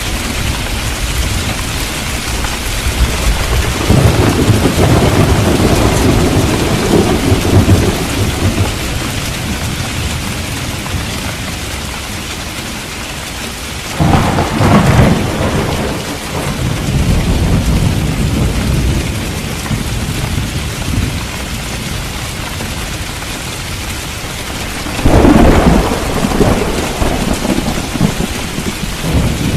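Steady heavy rain with thunder: a low rumble builds about four seconds in and lasts several seconds, and two sudden louder claps come about fourteen and twenty-five seconds in, each rolling away over a few seconds.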